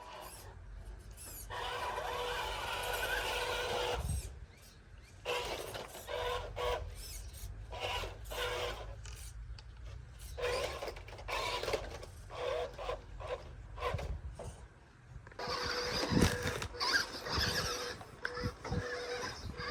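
Radio-controlled off-road truck's motor whining in stop-start bursts of throttle, its tyres scrabbling over dirt, with a loud knock about 16 seconds in.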